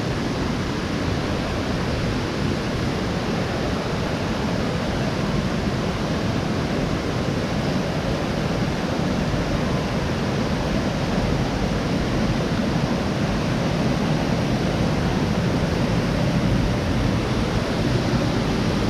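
Loud, steady rush of falling water from Ganoga Falls, a large waterfall.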